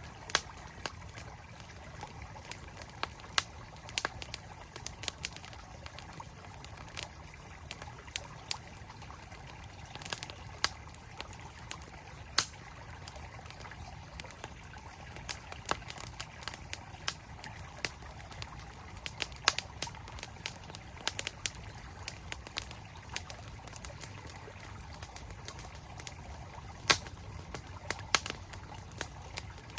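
Campfire crackling with sharp, irregular pops over the steady rush of a flowing mountain stream.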